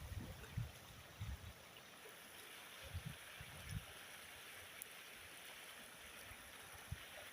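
Faint, steady rush of a river's flowing water, with low buffets of wind on the microphone in the first second or so and again around three seconds in.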